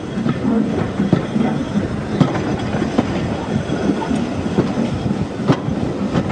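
Moving railway passenger coach heard from its open window: a steady rumble of wheels on the rails with sharp clacks over the rail joints, about one a second.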